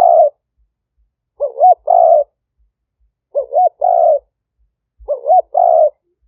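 Spotted dove cooing: a decoy bird's call, a short rising-and-falling coo followed by a longer burred note, repeated about every two seconds.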